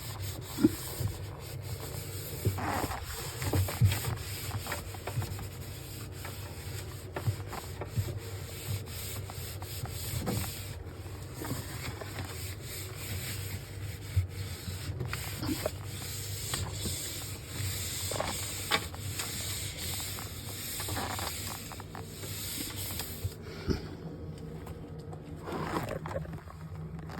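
Scrubbing and wiping of fridge surfaces, a cloth or sponge rubbing steadily, with scattered light knocks; the rubbing stops near the end.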